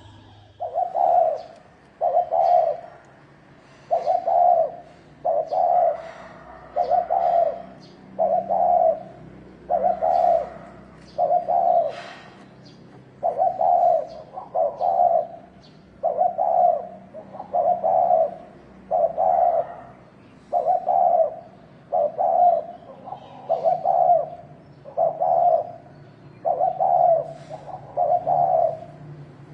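Spotted dove cooing: a long run of low, even coo notes, about one a second, sometimes in close pairs.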